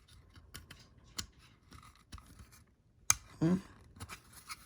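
Small sharp clicks and handling of a battery tea light's switch being tried, several scattered clicks with the loudest about three seconds in. A short voiced hum follows that loudest click.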